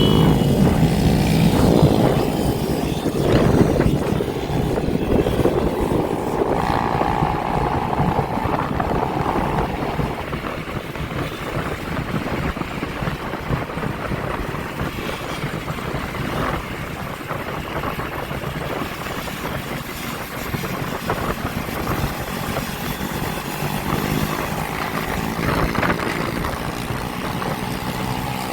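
Motorbike engines running and passing, their pitch rising and falling, over a steady rushing noise.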